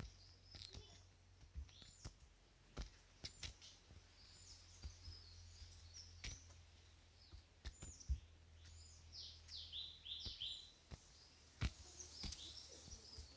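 Small birds chirping in short, high calls, thickest about two thirds of the way through, over a low steady hum with scattered faint clicks and taps.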